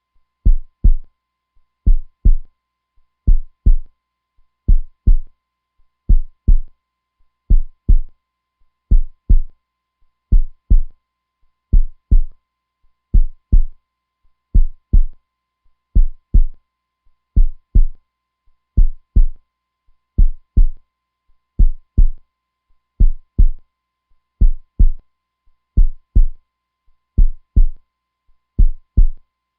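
A heartbeat, slow and steady, each beat a low double thump (lub-dub), about one beat every second and a half.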